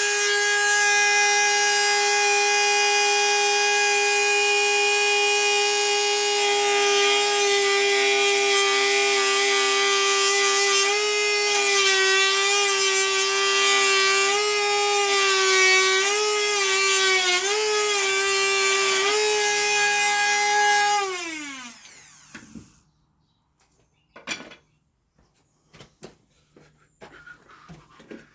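Electric power saw running with a steady whine, its pitch dipping again and again as it cuts wooden dowels, then switched off and winding down about three quarters of the way through. A few light knocks follow near the end.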